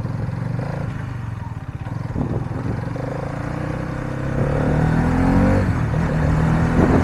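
Hero Karizma XMR 210's single-cylinder engine running at low revs, then revving up hard from about four seconds in, its pitch climbing with a dip and a fresh climb near the end. This is hard acceleration of the kind used to lift the front wheel for a wheelie.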